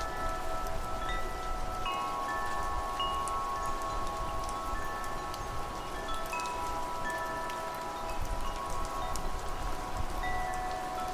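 Wind chimes ringing, several tuned notes struck at irregular moments and left to ring on over one another, over steady rain with scattered drop ticks.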